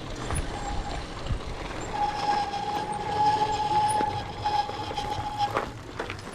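Bicycle brake squealing: one long, steady, high-pitched squeal that starts about half a second in and stops suddenly near the end, over rumbling ride noise.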